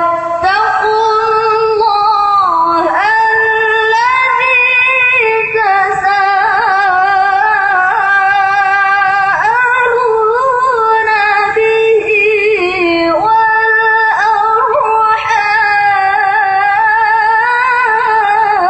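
A reciter's voice chanting Quran verses in the melodic tilawah style, holding long, high notes with wavering ornaments on each vowel, with a brief pause for breath about thirteen seconds in.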